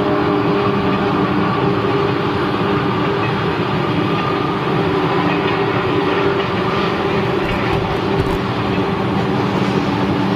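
Eurostar Class 373 electric trainset rolling past slowly, a steady running noise with a low hum of several steady tones.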